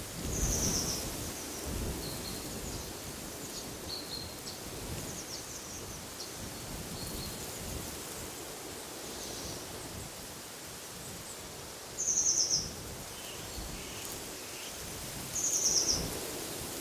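Wild songbirds calling over a steady rush of wind in trees. There are three short, high, rapid trills: just after the start, at about twelve seconds, and near the end. Fainter chirps come in between.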